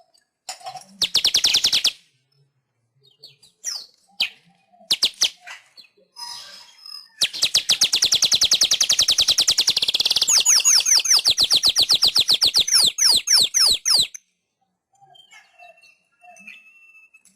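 Manyar (weaver bird) song: a short rapid rattling chatter, a few scattered notes, then a long fast buzzing rattle from about seven seconds in that ends in a run of quick down-slurred notes and stops suddenly.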